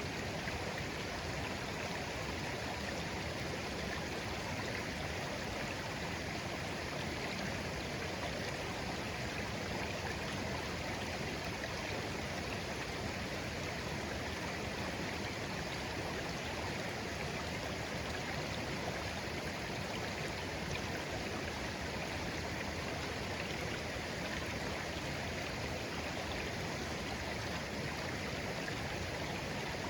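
Shallow, clear stream flowing gently over stones, a steady, even burble of running water.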